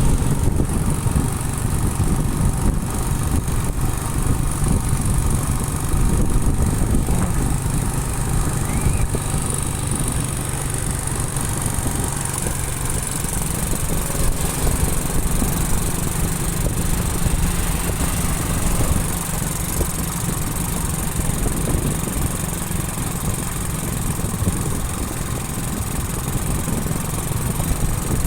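Motorcycle engine running steadily while riding, under a dense low rumble of road and wind noise.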